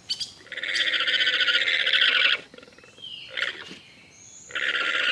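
Llama calling: a long call of about two seconds starting about half a second in, a brief fainter sound in between, and a second call near the end.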